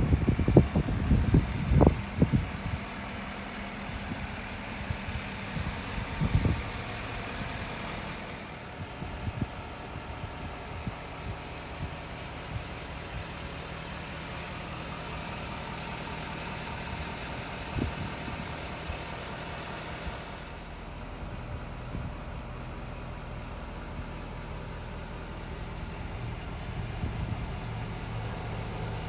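Ford F-550's 6.7L Power Stroke V8 turbo diesel idling steadily. A few loud thumps come in the first couple of seconds, and single knocks follow about six and eighteen seconds in.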